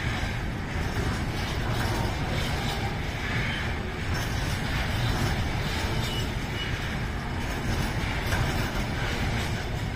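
Container wagons of a freight train rolling past: a steady rumble of steel wheels on the rails.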